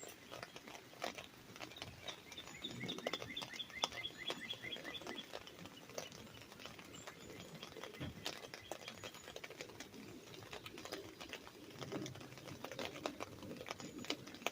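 Raindrops pattering on an umbrella, a dense irregular run of sharp taps. A bird sings a rapid trill of evenly repeated notes from about two seconds in to about five seconds in.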